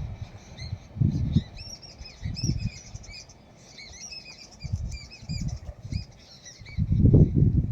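A flock of small birds chirping in many short, quick notes, with low rumbles that come and go, loudest near the end.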